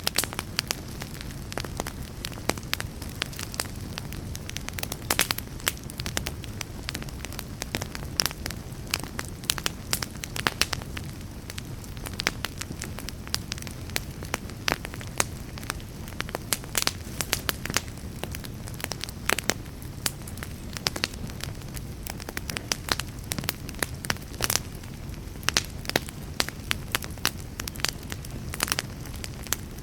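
Wood fire crackling in a fireplace: frequent, irregular sharp pops and snaps over a steady low rush of burning.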